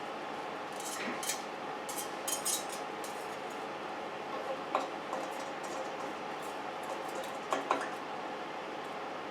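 Light metallic clinks and knocks from steel exhaust parts being handled on the bench, scattered through, with the sharpest pair near the end. A steady hum runs underneath.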